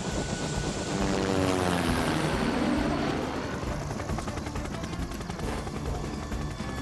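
Rescue helicopter sound effect in a cartoon: the rotor chopping steadily, with a pitched sweep falling in pitch about one to three seconds in.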